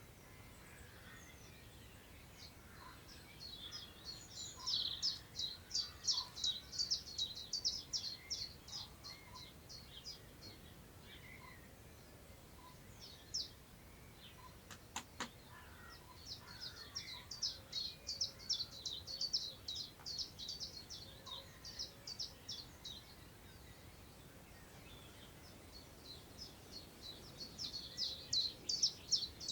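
A songbird singing in long bouts of fast, high chirps, about five or six notes a second, each bout lasting several seconds, three times over. Faint wind sounds low underneath, and there is a single short click about halfway through.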